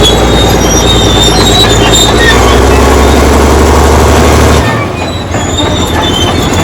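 Crawler dozer running and moving, its steel tracks squealing and clanking over a steady engine drone; the low drone drops away abruptly near the end.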